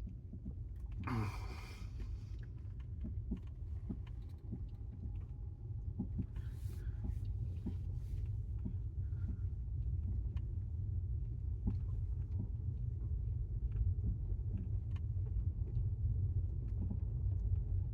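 Low, steady road rumble inside the cabin of a 2018 Tesla Model S 75D on the move, slowly growing louder.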